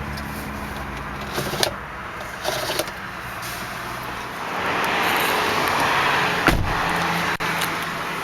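The Durango's Magnum V8 is switched off and its idle dies away at the start, followed by a few light clicks, a steady hiss in the middle and a single thump about six and a half seconds in.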